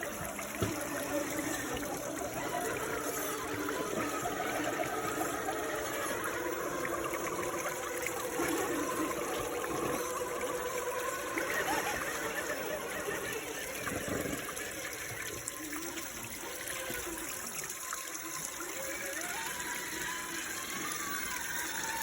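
Steady running, trickling water, with a faint wavering whine over it that rises near the end.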